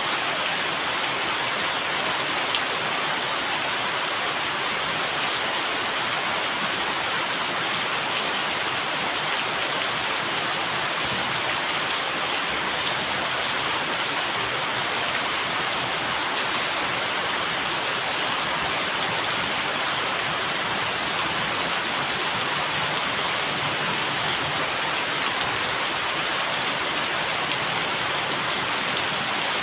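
Steady rain falling, an even continuous hiss with no thunder and no change in strength.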